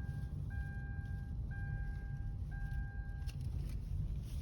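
Steady low rumble of a vehicle, with a long electronic warning beep repeating about once a second that stops about three and a half seconds in.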